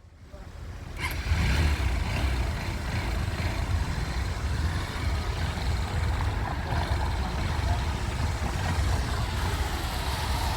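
Rain and road traffic: a steady wash of noise with a low rumble, rising in over the first second or so.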